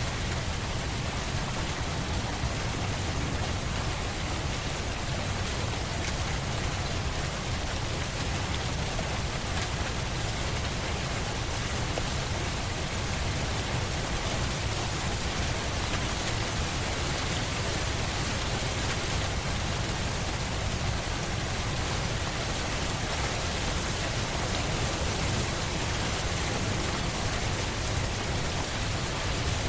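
Steady rain falling on a surface, a constant even patter.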